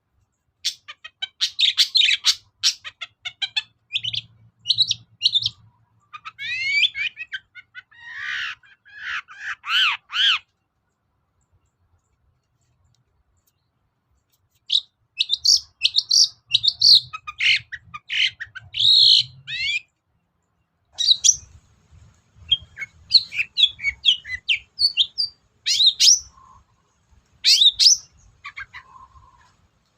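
Long-tailed shrike (cendet) singing a rapid, varied, scratchy song of chirps and trills in bursts, with a silence of about four seconds near the middle.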